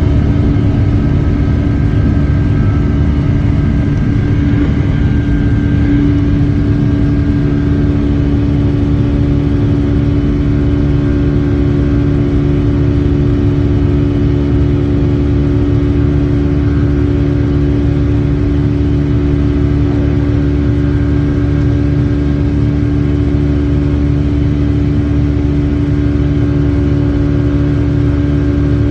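Boeing 757-300's Rolls-Royce RB211 turbofan engines running at takeoff power, heard from inside the cabin: a loud, steady rumble with a constant low hum and fainter steady whines above it.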